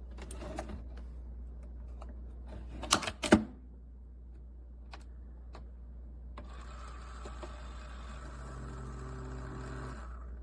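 Single-serve pod coffee maker being handled and run: a few light clicks, two sharp clunks about three seconds in, then from about six seconds a steady mechanical hum that grows a low buzzing tone near the end.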